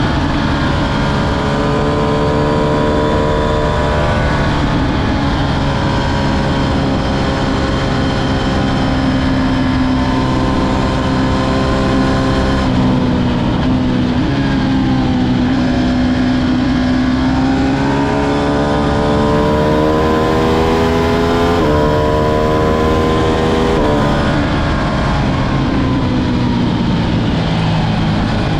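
Ducati Streetfighter V2's 955 cc L-twin engine under way, its pitch climbing and falling with engine speed. The note drops back sharply a few times, as at gear changes, with a longer slow dip and climb in the middle.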